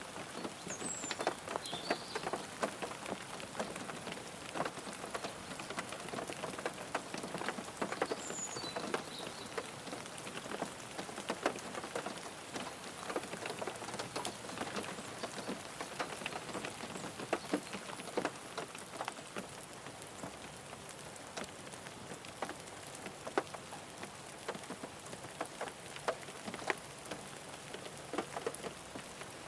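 Steady rain falling on a car, a dense, even shower with many individual drops ticking sharply against the body.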